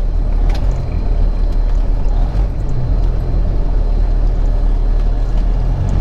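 Peterbilt 379 semi truck's diesel engine running steadily while driving, a continuous low drone.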